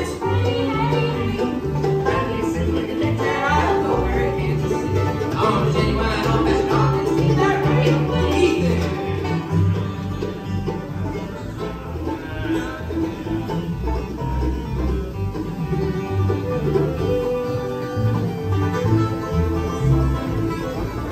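Live bluegrass band playing, the banjo to the fore, with guitar and a steady low bass pulse.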